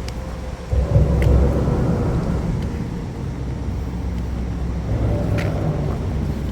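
Traffic on a busy highway: steady road noise from passing cars, swelling louder as a vehicle goes by about a second in.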